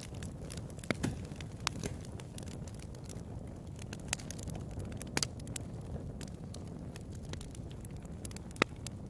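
Wood fire crackling in a fireplace: a steady low rumble with scattered sharp pops, the loudest one near the end.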